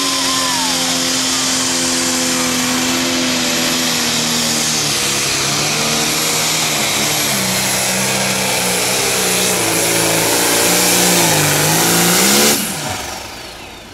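Turbocharged diesel engine of a John Deere Pro Stock pulling tractor at full throttle dragging the weight sled, with a loud high hiss over the engine note. The pitch sags as the tractor bogs down under the sled, then the throttle is cut near the end and the sound falls away quickly, marking the end of the pull.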